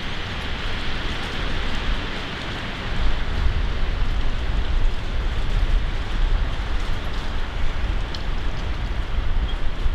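Strong wind rushing steadily through trees, with gusts buffeting the microphone in a low rumble that gets heavier about three seconds in.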